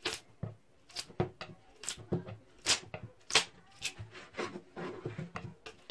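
A run of about ten sharp knocks and clicks, roughly one every half second, some with a dull thud under them, from work on a home-made disc sander.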